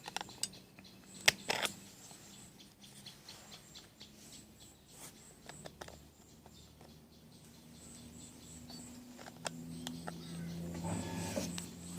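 Crickets chirping steadily in a thin, pulsing high trill, with a few sharp clicks, the loudest about a second in. A low steady hum comes in during the second half.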